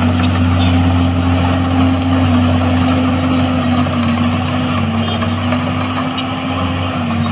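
Heavy diesel earthmoving machinery engine running steadily at a constant speed.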